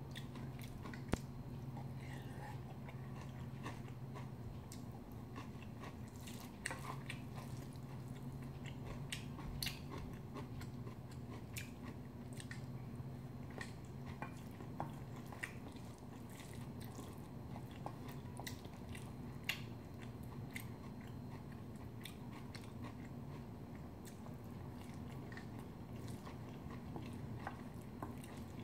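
Chewing and mouth sounds of someone eating bibimbap, with scattered sharp clicks of a spoon against a stainless steel bowl. A faint low hum runs underneath and drops out now and then.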